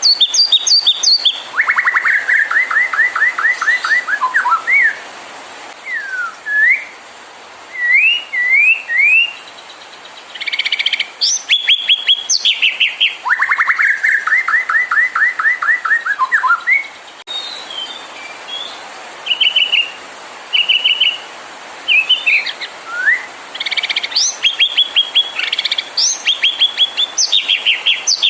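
White-rumped shama (murai batu) singing a loud, varied song. Rapid trills of repeated notes alternate with rising whistled notes and high sharp calls, with brief pauses between phrases. This is the agitated song used as a 'pancingan' to provoke caged shamas.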